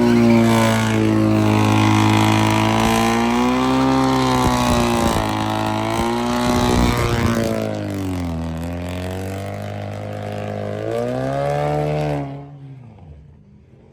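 A car engine held at high revs, its pitch sagging and climbing again several times, then dropping away sharply near the end.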